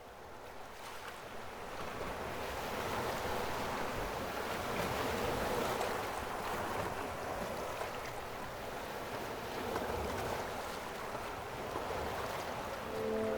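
Steady rushing noise of strong wind, with low rumble from the wind on the microphone, fading in over the first two seconds. Music begins near the end.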